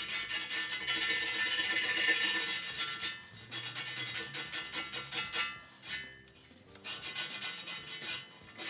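Hand sanding paint out of the bush bores of a Nissan R200 subframe: fast back-and-forth rasping strokes, with short pauses about three seconds in and again around six seconds.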